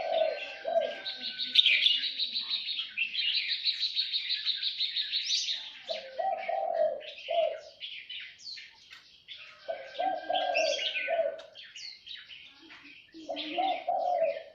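Songbirds chirping and trilling without pause, with a dove's low cooing phrase repeating about every four seconds.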